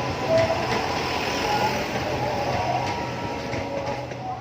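A train passing on the track, a steady rumble and rattle of rail cars that eases slightly toward the end.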